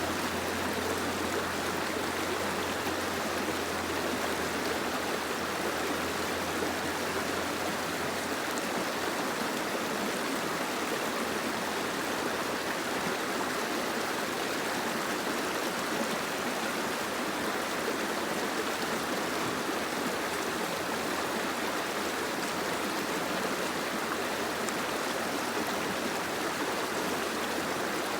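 Soft rain falling steadily, an even hiss of water. A low hum under it fades out about eight seconds in.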